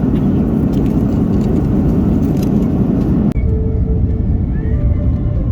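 Steady low rumble of a moving vehicle with a rattly hiss. About two-thirds of the way through, the sound cuts abruptly to a lower rumble, and faint music notes come in.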